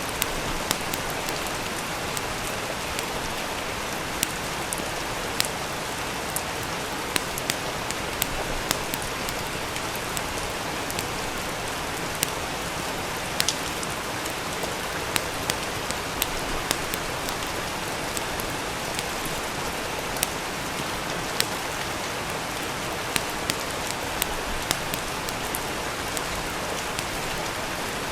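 Steady rain, with a wood fire crackling: irregular sharp pops, about one or two a second, over the even hiss of the rain.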